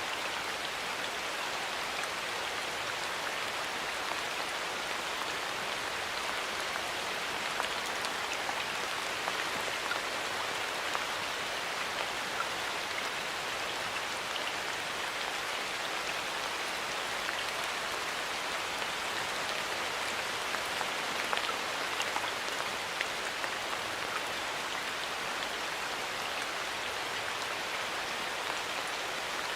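Steady rain falling in a forest: an even hiss with many small drop ticks.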